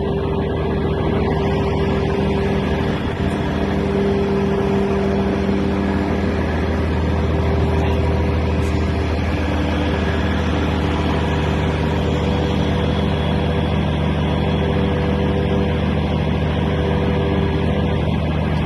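Mobile crane's diesel engine running steadily, its note deepening and getting fuller from about six seconds in.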